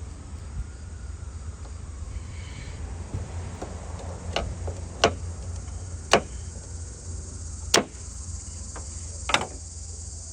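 A handful of sharp metallic clicks, spaced about a second apart, as a new hood gas lift support is worked and clipped onto its top mount. They sit over a steady high chirring of crickets.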